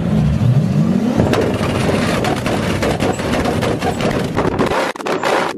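Modified car engine revving hard, its pitch climbing for about a second. Then comes a rapid, dense string of crackling exhaust pops and bangs, and the deep rumble drops away near the end.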